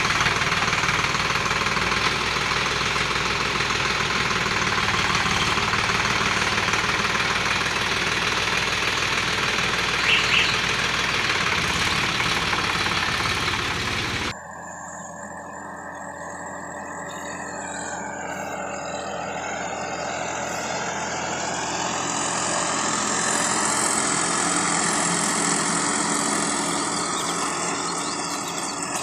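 Sonalika DI 50 RX tractor's diesel engine running. About halfway through, the sound cuts abruptly to a quieter engine recording that slowly grows louder.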